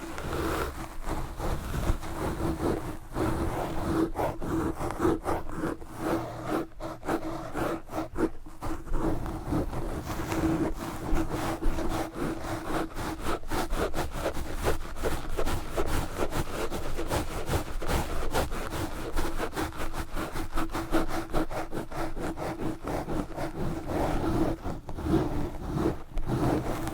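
Fast, hard scratching and rubbing of knitted wool gloves directly on a microphone, a dense run of rapid rough strokes.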